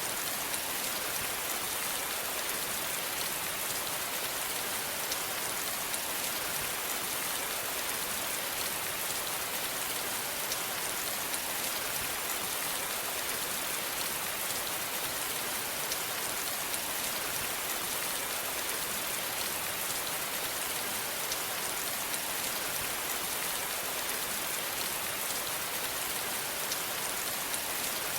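Steady rain falling and pattering on a surface, an even hiss with fine scattered drop ticks.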